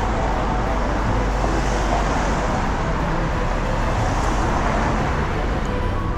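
Busy road traffic close by: a steady rush of engine and tyre noise from passing cars.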